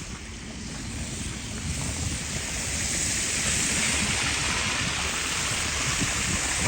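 Outdoor hiss that builds over the first couple of seconds and then holds steady, over a low fluttering rumble of wind on the microphone.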